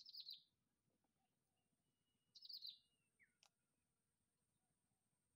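Faint near silence broken twice by a short burst of quick, high bird chirps, once at the start and again about two and a half seconds in.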